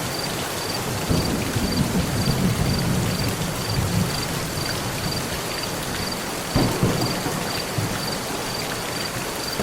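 Heavy rain falling steadily on a metal roof, with low rolling thunder rumbling through the first few seconds and a sharper crack of thunder about six and a half seconds in.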